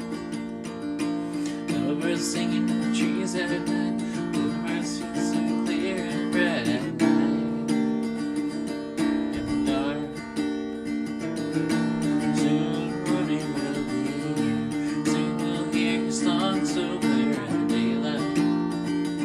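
Lo-fi folk music: acoustic guitar strumming steady chords.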